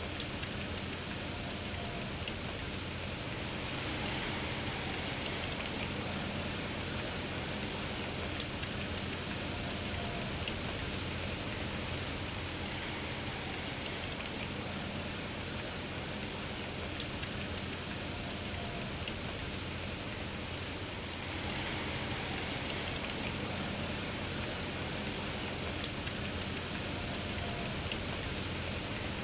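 Steady rain falling, with a single sharp tap standing out four times at roughly even intervals of about eight and a half seconds.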